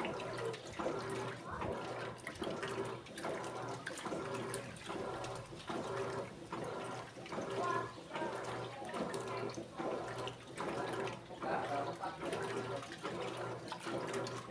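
Electrolux Essential Care 14 kg top-loading washing machine agitating its wash load: water sloshing in regular strokes about once a second, over a steady hum.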